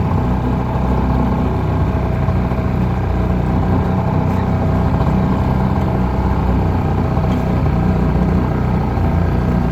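Twin two-stroke outboard motors of a jet jon boat running steadily under way, holding an even pitch.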